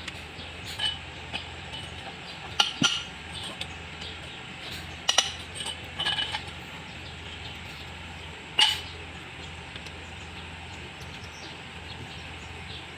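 Scattered sharp metallic clinks and taps of tools and parts being handled, about half a dozen with a second or more between them and none after about nine seconds in, over a steady low hum.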